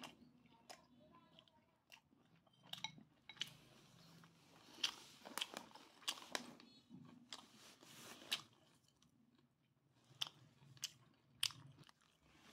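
A person chewing grilled duck close to the microphone: irregular wet mouth smacks and crunches, in clusters with short pauses between them.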